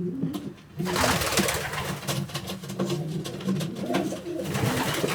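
Pigeons cooing in a loft, low and repeated, with a loud rustling noise setting in about a second in and running under the cooing.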